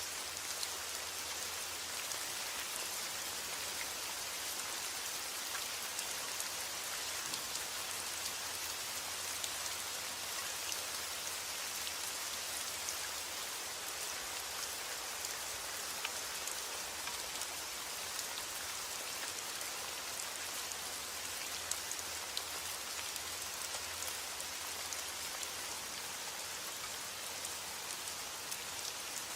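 Steady heavy rain, with scattered single drops ticking through the even hiss.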